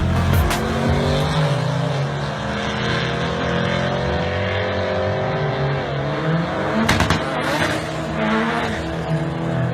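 LS V8 engine of a 1972 Chevy C10 drag truck running hard, its pitch dropping about two seconds in and again about six seconds in.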